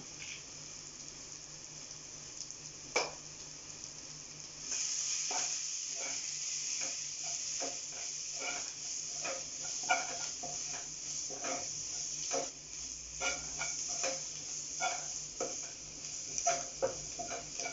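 Onions and spice powders sizzling in oil in a nonstick pan. The sizzle grows louder about five seconds in, when a steel spoon starts stirring, and from then on the spoon makes repeated scrapes and taps against the pan.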